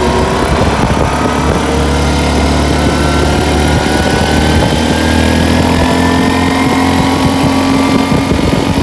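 Off-road vehicle's engine running under load as it gathers speed, its pitch rising slowly and then holding steady near the end.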